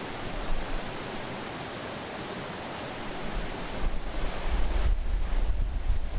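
Water waves rushing steadily. From about four seconds in, wind buffets the microphone with a gusting low rumble.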